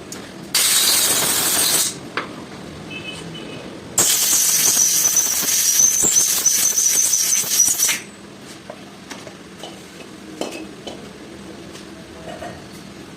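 Two bursts of loud hissing that start and stop abruptly, one about a second and a half long and then one about four seconds long with a steady high whistle in it. A few light clicks follow.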